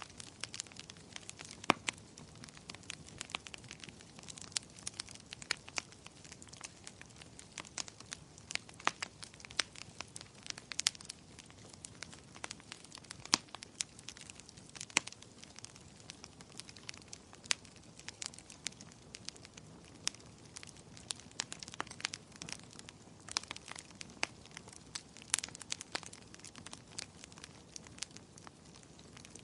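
Wood fire crackling in a fireplace: a soft steady hiss with frequent irregular sharp pops and snaps, a few standing out louder.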